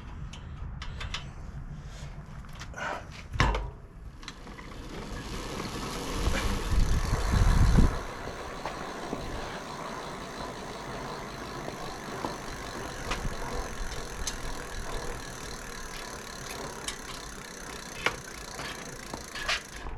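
E-bike rear wheel spinning up and then running at a steady speed with a steady whir, checked for brake-rotor rub after the caliper was re-aligned; the light noise is what the owner takes for normal bearing noise.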